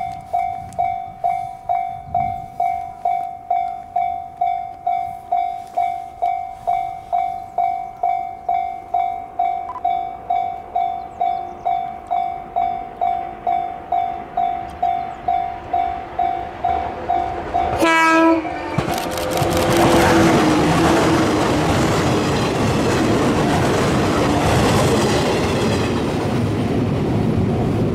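Electronic level-crossing alarm dinging about twice a second. About two-thirds of the way in an electric train arrives with a short burst of tones, then passes, and the rumble and clatter of its wheels fills the rest.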